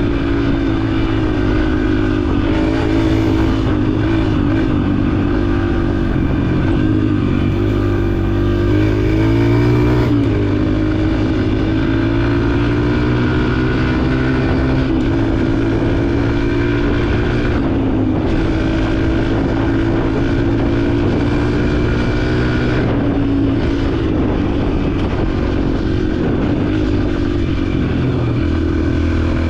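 Yamaha dirt bike engine running under way at fairly steady revs, with the revs climbing briefly and dropping back about nine seconds in.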